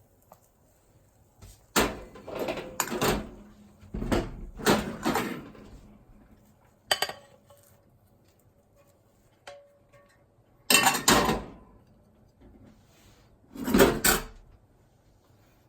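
Kitchenware knocking and scraping: a series of separate sharp clatters, a few of them in quick pairs, with quiet gaps between.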